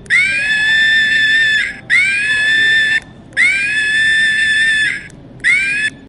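An animal giving four long, high-pitched screaming calls in a row, each rising at the start and then held steady before stopping abruptly.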